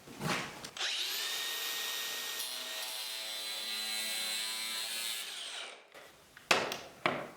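A power tool spins up, runs steadily with a whine for about five seconds and stops. Then come two sharp knocks near the end.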